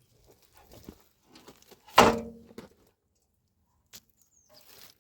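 A single loud thud about two seconds in, with a short ringing tail, among faint scattered handling rustles.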